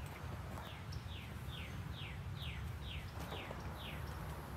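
A bird singing a run of about eight short whistled notes, each sliding down in pitch, about two a second, over a steady low background hum.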